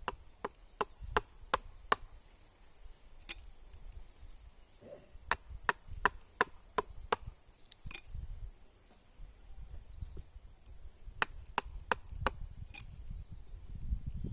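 Short, sharp chopping strokes of a toddy tapper's knife cutting into a date palm to open a new tapping face, in quick runs of several strokes with pauses between.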